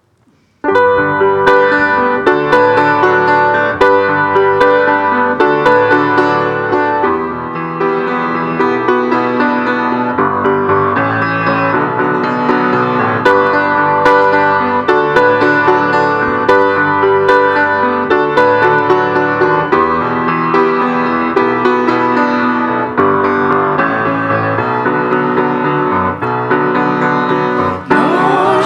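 Instrumental introduction to a Christian song played on keyboard with a piano sound, starting suddenly about half a second in and running on at a steady level.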